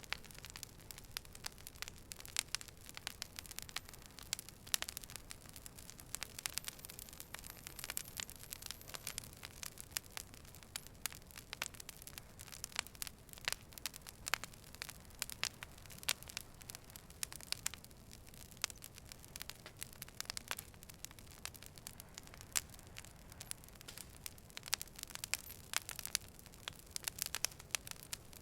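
A fire burning, crackling continuously with many irregular sharp pops and snaps over a soft steady hiss.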